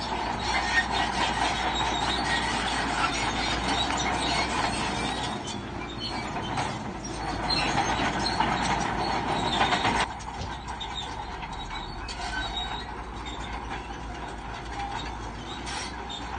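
Bulldozer crawler tracks squealing and clanking over the running engine. The sound drops sharply about ten seconds in and goes on more quietly.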